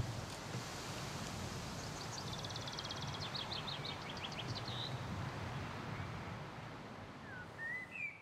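Outdoor ambience with a steady low background rumble. A songbird sings a rapid trill of high notes from about two seconds in, its notes spacing out toward the end, and a few short chirps come near the end.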